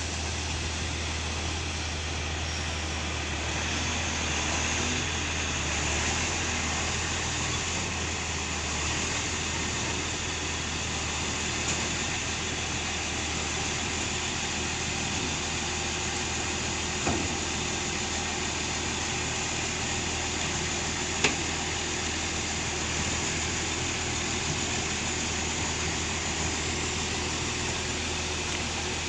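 A heavy vehicle's engine running steadily with a low hum, with two short sharp knocks about two-thirds of the way through.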